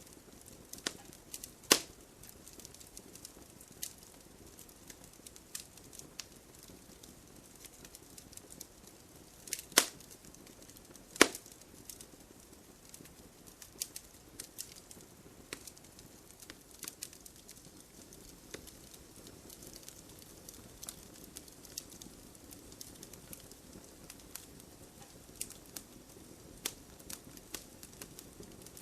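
Wood fire burning in a fireplace: scattered crackles and snaps over a soft low hiss of flames, with three louder pops, one near the start and two close together about a third of the way through.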